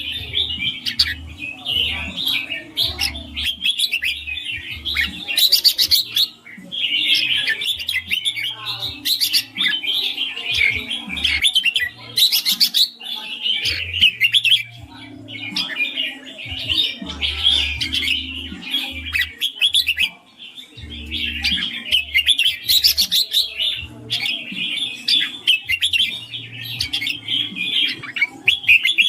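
Red-whiskered bulbul singing: a long stream of quick, chattering warbled notes, broken by brief pauses about six seconds and twenty seconds in.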